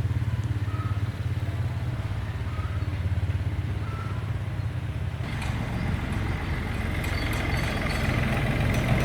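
Engine of an old restored farm vehicle running with a steady low, rapid pulsing, cutting in abruptly at the start. About five seconds in, a higher whine and some clatter join and it grows a little louder.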